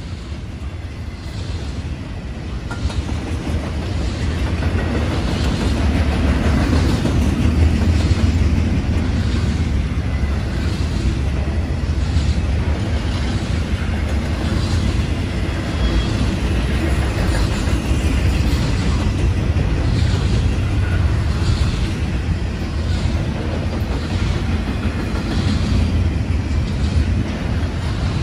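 Union Pacific double-stack intermodal well cars rolling past: a steady low rumble with regular clicking of wheels, about once a second, growing louder over the first few seconds and then holding.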